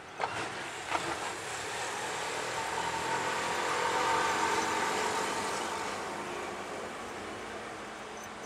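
A vehicle passing by: its noise swells to a peak about four seconds in, then fades away. Two short knocks come in the first second.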